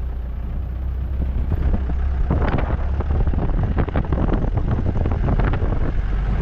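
Vehicle running with a steady low rumble. From about a second and a half in, a run of irregular rattles and knocks comes over it.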